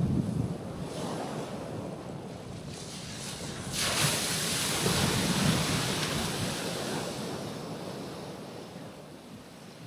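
Gentle ocean waves breaking on a rocky shoreline. A wave washes in with a hiss about four seconds in, then fades as it draws back. Wind buffets the microphone.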